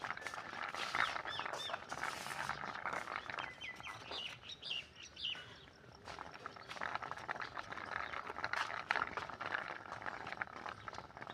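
Birds chirping in short, high, quick calls, bunched in the first half, over light clicking and knocking.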